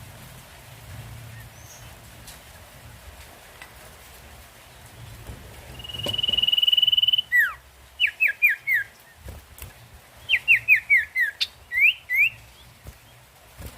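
Sirtu songbird calling: after several seconds of faint background, one long, steady high whistle, then quick runs of short falling notes, four and then five, and finally two short rising notes.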